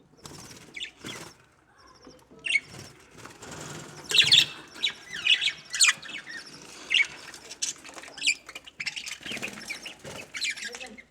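Budgerigars chirping and chattering in quick, high flurries, busiest about four to seven seconds in and again near the end.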